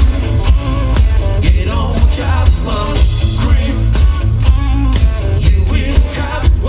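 Live band playing a rock song at full volume: a heavy bass line and steady drum beat under a bending melody line from guitar or voice.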